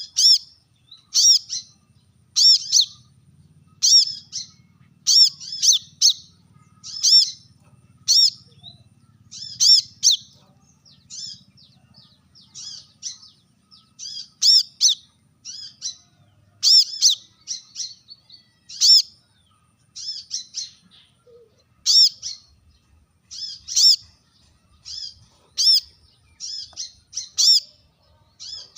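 Brown-throated sunbird (kolibri kelapa) giving sharp, high calls, each a quick cluster of notes, repeated about once a second. It is a challenge call aimed at a rival male.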